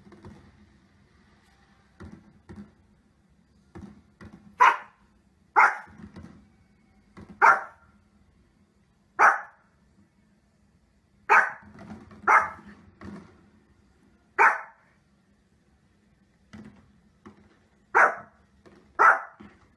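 Small long-coated spitz-type dog barking: about ten sharp single barks, spaced irregularly a second or two apart, with a gap of about three seconds after the middle and quieter short sounds in between.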